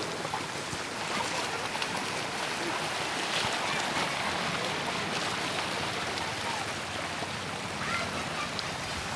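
Floodwater running, a steady rushing noise.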